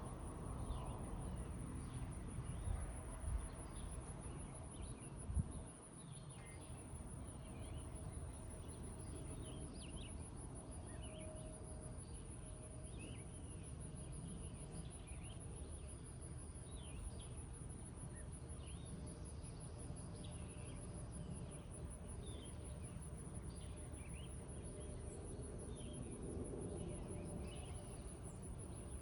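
Steady high-pitched insect trill, a fast even pulsing that runs without a break, with scattered short bird chirps over it. A low rumble with a few thumps sits under the first few seconds, then fades.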